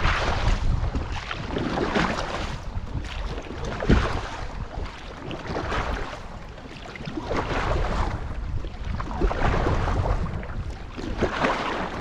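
Wind buffeting the microphone with a low rumble, over paddle strokes swishing and splashing through the water every second or two. There is one sharp knock about four seconds in.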